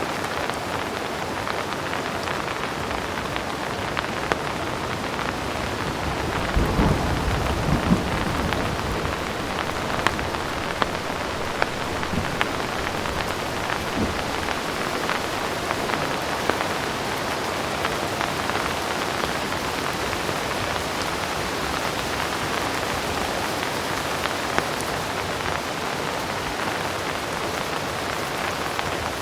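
Heavy rain falling steadily, with scattered sharp drop ticks. A low rumble of distant thunder rolls in about six to seven seconds in and lasts a couple of seconds, with a fainter rumble around fourteen seconds in.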